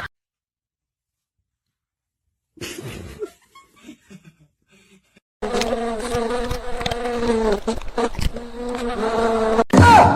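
A steady insect-like buzz starts about halfway in and lasts about four seconds, with a few light knocks in it, after near silence.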